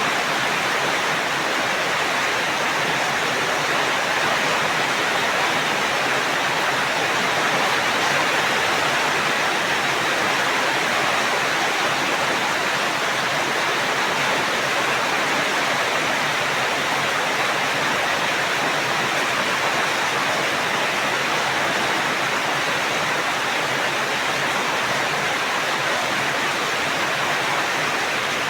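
Heavy rain falling as a steady, even rushing hiss, with no single drops, dripping or thunder standing out.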